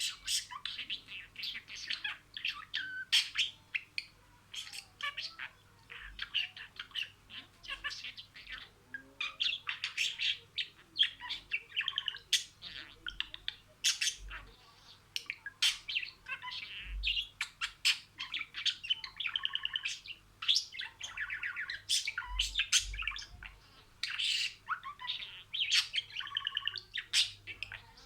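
Budgerigar warbling and chattering, a continuous run of quick chirps, clicks and short squawks.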